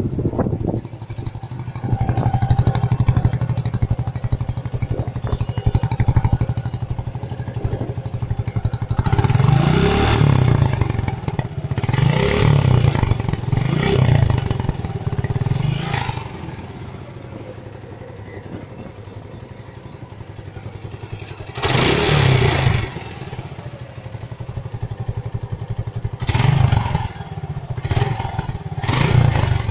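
Suzuki Gixxer's 155 cc single-cylinder engine idling through a cut-down, modified silencer. The throttle is blipped into short revs about seven times.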